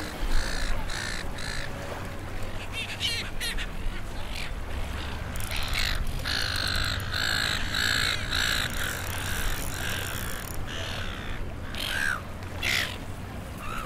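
Birds calling, with a run of repeated calls about two a second through the middle and a few shorter calls before and after, over a steady low rumble.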